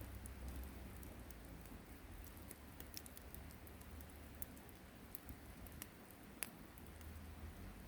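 Wood campfire crackling faintly: scattered small pops and ticks at an irregular pace, with one sharper pop about six and a half seconds in.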